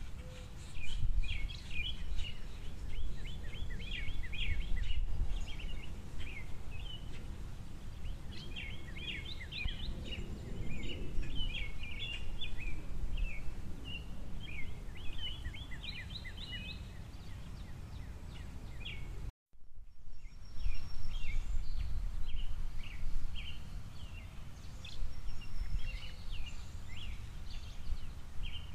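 Small songbirds at a feeder chirping and twittering in quick, overlapping bursts, over a steady low background rumble. The sound drops out for a moment about two-thirds of the way through, then the chirping resumes.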